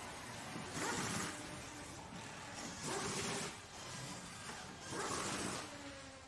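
Repeated rasping strokes of a tool working wood, about one every two seconds, with quieter gaps between them.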